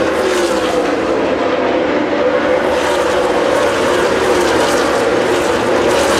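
A field of NASCAR Nationwide stock cars racing past at speed, their V8 engines making a continuous loud roar, with several engine tones sliding slowly down in pitch as cars go by.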